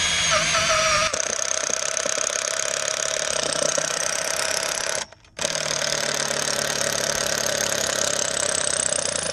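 Electric power drill running under load, boring out a hole, with a steady motor whine; it stops for a moment about five seconds in and starts again. The drill gets hot from the work.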